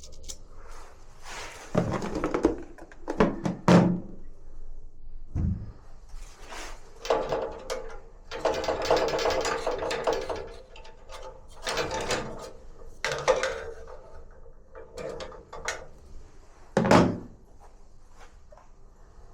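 Irregular knocks, thunks and scraping as parts of a Bosch gas water heater are handled and worked on during servicing, with a few sharper knocks and longer stretches of rubbing.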